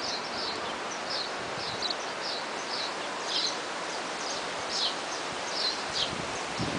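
A small bird chirping over and over, short high notes sliding downward about twice a second, over a steady rushing hiss of outdoor noise.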